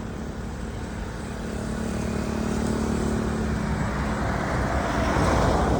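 Road traffic: a motor vehicle engine hums steadily, then a vehicle passes close by, its noise swelling to a peak near the end.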